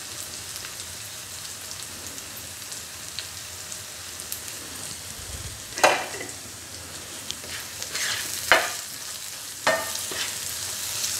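Tomato-onion masala sizzling steadily as it fries in a nonstick frying pan, with a few sharp knocks and scrapes of a spatula against the pan in the second half as it is stirred.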